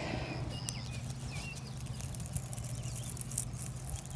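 Close rustling and scratching with small clicks, over a steady low hum of a lawn mower engine running off across the property. A few short bird chirps are heard.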